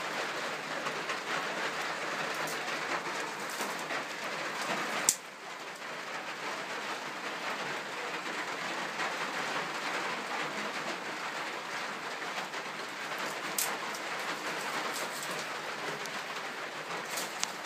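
Steady rain falling, an even hiss, with one sharp loud click about five seconds in and a couple of fainter clicks later.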